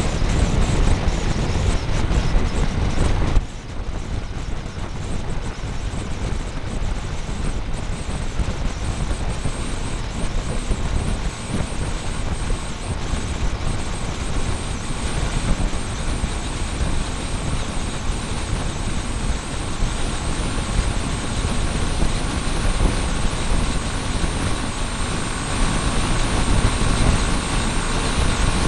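Motorbike on the move, heard through a small camera mounted on the bike: steady wind rush and road and engine noise. The noise drops sharply for a moment about three and a half seconds in, then carries on.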